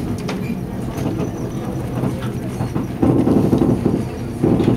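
Via Rail Skeena passenger train running on the rails, heard from on board: a steady low rumble with scattered clicks from the wheels, growing louder about three seconds in.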